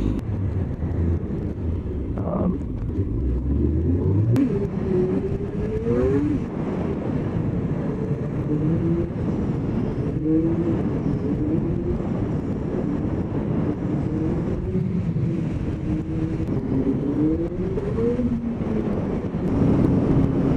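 Motorcycle engine accelerating on the move, its pitch climbing and dropping back several times as it shifts up through the gears, over steady wind and road noise.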